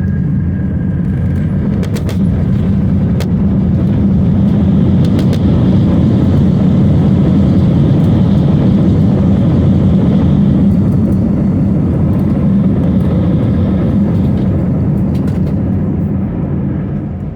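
Cabin noise of an Airbus A319's CFM56 jet engines and wheels during the landing rollout: a loud, steady roar that swells over the first few seconds and eases off near the end as the jet slows, typical of reverse thrust after touchdown. A few faint rattling clicks come through the roar.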